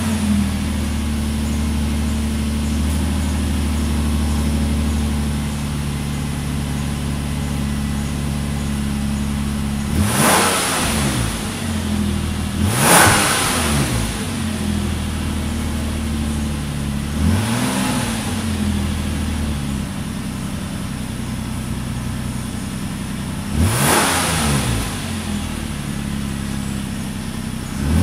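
Nissan E51 Elgrand's V6 engine idling through a Kakimoto aftermarket muffler, freshly started, its idle easing down a little about five seconds in. The throttle is blipped four times at intervals of a few seconds, each a short rev that rises and falls back to idle, the second one the loudest.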